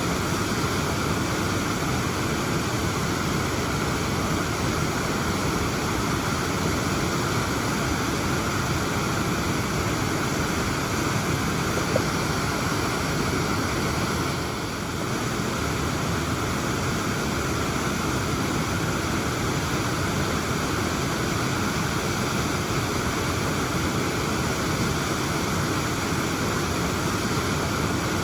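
Waterfall: a steady, unbroken rush of falling water, with one brief click about twelve seconds in.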